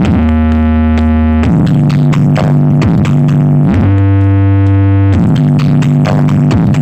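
Loud electronic dance music played through a big sound-system rig with eight subwoofers. Long held deep bass notes alternate with stretches of quick, rapid beats.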